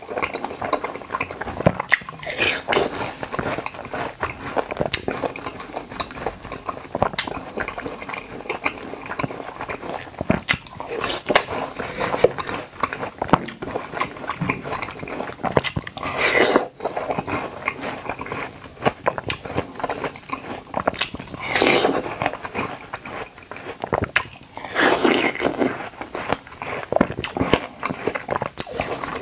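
Close-up mouth sounds of biting and chewing watermelon konjac jelly, with many small wet clicks and smacks. A few louder, longer bursts of eating noise come about halfway through and again twice in the last third.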